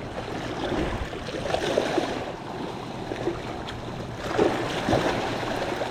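Sea water washing and splashing around shoreline rocks, swelling twice: about one and a half seconds in, and again about four and a half seconds in.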